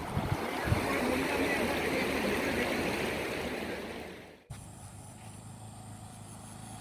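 Rushing river water, a steady hiss that swells slightly and then fades out at a sudden cut about four and a half seconds in. A quieter low steady hum follows.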